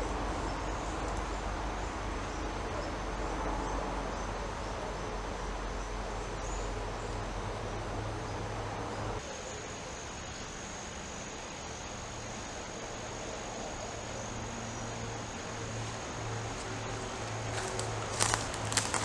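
Woodland ambience with a steady high insect drone over a low rumble. The background changes abruptly about nine seconds in, and a few sharp clicks come near the end.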